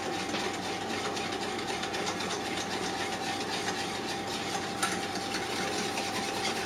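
Spoon stirring a freshly mixed sweet-and-sour barbecue sauce: continual scraping with light, quick ticks against the container, and one sharper click a little before the end, over a steady hum.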